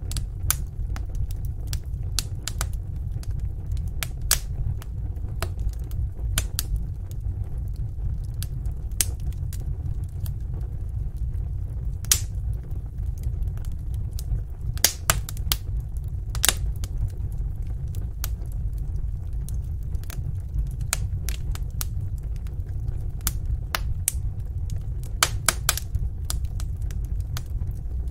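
Wood fire burning in a fireplace: sharp, irregular crackles and pops over a steady low rumble of the flames.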